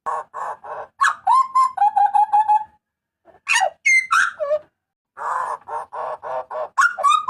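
Butcherbird (burung jagal papua) giving loud calls: phrases of rapid repeated harsh notes mixed with clear whistled notes, some sliding down in pitch, with short pauses between phrases.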